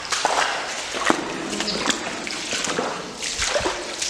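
Irregular footsteps and rustling on wet, uneven ground, with scattered sharp clicks and splashy scuffs.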